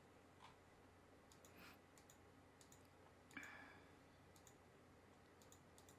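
Near silence with faint, scattered clicks of computer keys and mouse buttons, and one slightly louder knock about three seconds in.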